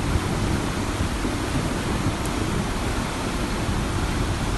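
Flash-flood water rushing down a wadi, a steady, even rushing noise with no breaks.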